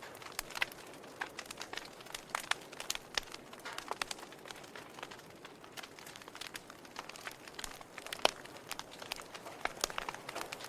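Wood fire crackling in a fireplace: irregular pops and snaps over a low hiss, with one sharper pop about eight seconds in.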